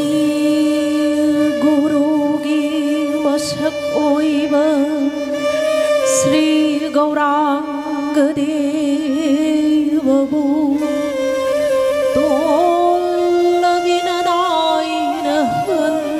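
Live Manipuri classical dance music: a steady held drone with a wavering, ornamented melody line of voice and instruments above it. A few bright high strikes come a few seconds apart early in the passage.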